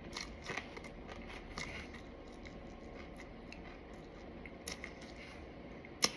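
Quiet eating sounds from a plate of fried fish: scattered soft clicks and light crunches, with one sharp click near the end.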